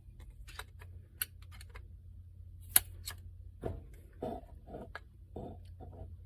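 Scattered light clicks and taps of metal hand tools: a screwdriver being picked up and worked against a small-engine carburetor to unscrew its emulsion tube, with one sharper click a little before the middle.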